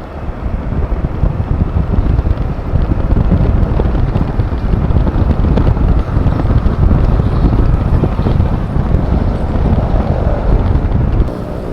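Heavy wind buffeting the microphone as a Honda Click 125 scooter is ridden at speed, with the scooter's running and road noise underneath. The buffeting eases just before the end.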